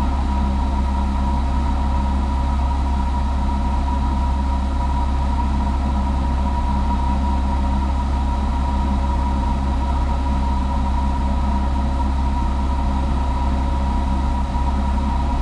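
Steady drone of a Cessna 172's four-cylinder piston engine and propeller in flight, with a constant low rumble and a steady hum, unchanging in pitch and loudness.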